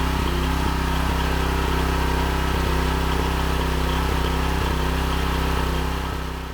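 Magnum 4000 Gold hot-water pressure washer running steadily, its engine note unchanging, fading out near the end.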